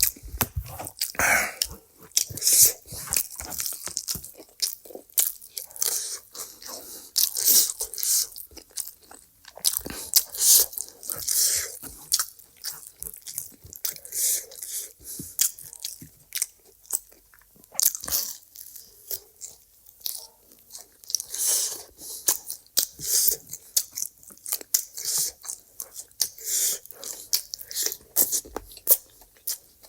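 A person chewing and crunching food close to the microphone: an uneven run of short crunches and chews throughout.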